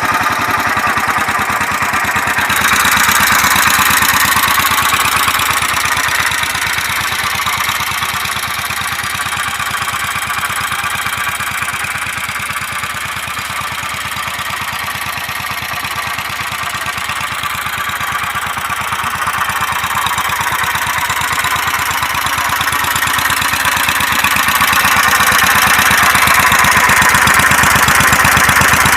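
Honda GX390 single-cylinder four-stroke engine of a mini tractor running steadily, its firing beat even throughout, growing quieter around the middle and louder again near the end.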